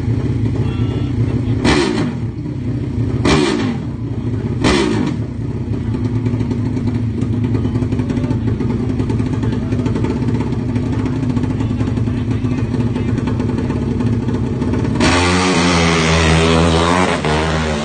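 150cc drag-racing motorcycle engine running at the start line, with three sharp throttle blips in the first few seconds. Near the end it is revved hard and loud, the pitch rising and falling.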